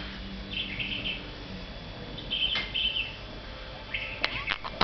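Birds chirping in three short bursts of quick, high chirps, with a few sharp clicks near the end.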